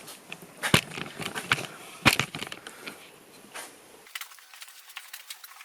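Scattered clicks and knocks of metal parts and tools being handled while the wiper mechanism is worked on, with two sharper knocks about a second and two seconds in.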